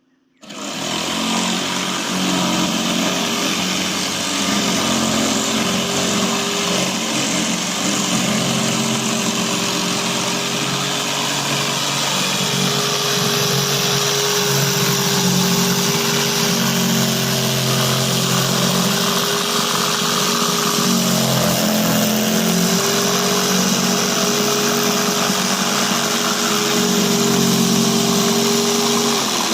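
Electric jigsaw starting up and running steadily as it cuts along the edge of a sign board, trimming it to look frayed. Its motor tone dips briefly about two-thirds of the way through and winds down at the end.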